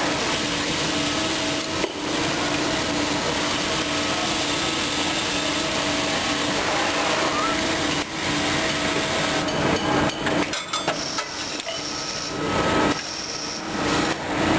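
Automated CNC machining line for piston rings running: a steady, dense machine noise with a humming tone, which turns choppy and uneven, with short breaks, in the last few seconds.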